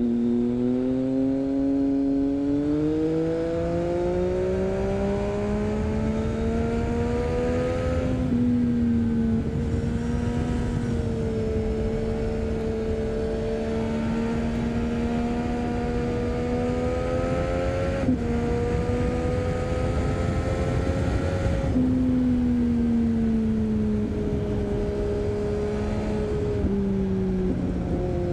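Triumph Street Triple 675's inline three-cylinder engine through an Arrow 3-2 exhaust with dB-killer, pulling under throttle: its note rises over the first several seconds, holds fairly steady, then falls as the bike slows and jumps back up shortly before the end. Wind and road noise run underneath.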